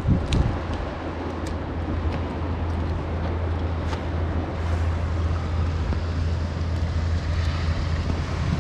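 Steady wind rumble with rain falling, and a few faint raindrop ticks.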